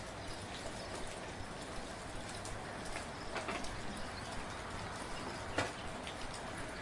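Soft, steady rain falling, with now and then a single louder drop tapping close by.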